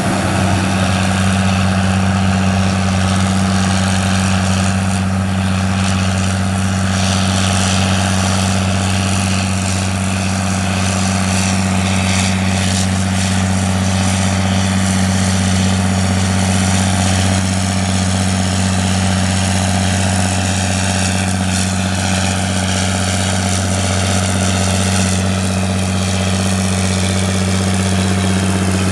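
Heavy diesel engine of corn-harvesting farm machinery running steadily at constant speed, with a broad mechanical clatter over the engine note.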